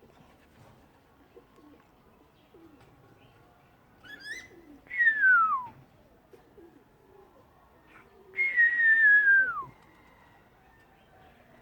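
African grey parrot whistling: a short rising chirp about four seconds in, then two long clear whistles, each sliding down from a high note to a low one, the second held longer before it drops.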